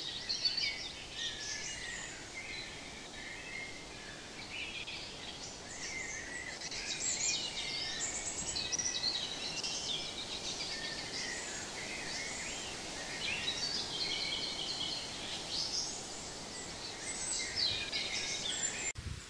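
Several songbirds singing at once, short chirping and warbling phrases overlapping one another over a steady hiss of outdoor background noise.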